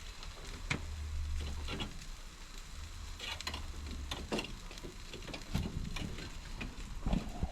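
Chicken legs sizzling on a barbecue grill over a fire, with scattered pops and crackles. A low rumble runs under the first half.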